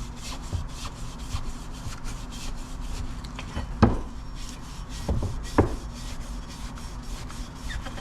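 Scotch-Brite pad wetted with WD-40 being rubbed back and forth inside a nickel-plated ATV cylinder bore, in quick even strokes about three or four a second, scuffing a cross-hatch for the new rings to seat. A few sharper knocks come in partway through.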